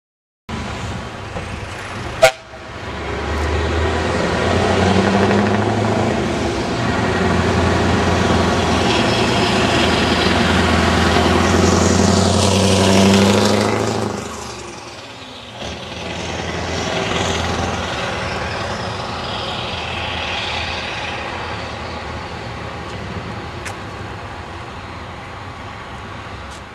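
Scania R580's 16-litre V8 with loud open exhaust pipes driving past: the engine note builds to its loudest as the truck goes by, drops away briefly, then pulls again and fades. One sharp crack about two seconds in.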